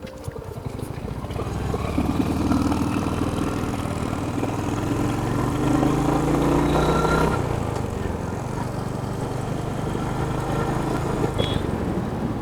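Royal Enfield Hunter 350's single-cylinder engine running as the motorcycle is ridden. Its pitch climbs steadily for several seconds, then drops suddenly about seven seconds in.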